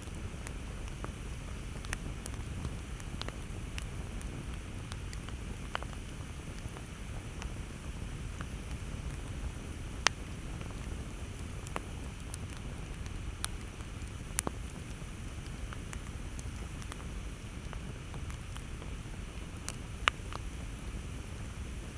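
Campfire burning with a steady low rumble, irregularly punctuated by sharp crackles and pops of burning wood, a few louder snaps among them.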